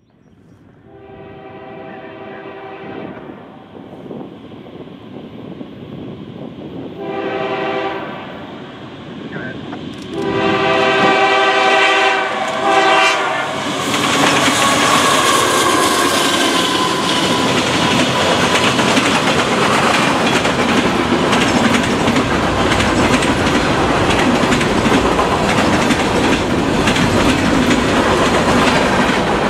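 Diesel freight train approaching a grade crossing: the locomotive horn sounds three times, short in the middle and longest at the end, growing louder. Then two Kansas City Southern diesel locomotives pass loudly, followed by the steady clickety-clack of wheels under empty flatcars.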